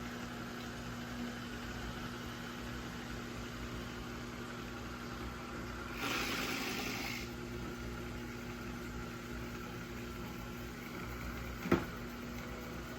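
Roborock robot vacuum humming steadily as it makes a second try at docking into its base station. About six seconds in there is a brief louder hiss, and a single sharp click comes near the end.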